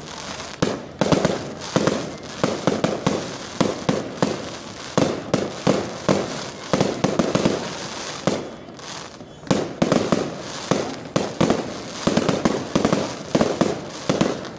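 A fireworks barrage: a rapid, irregular string of loud bangs, several a second, thinning briefly about eight seconds in before picking up again.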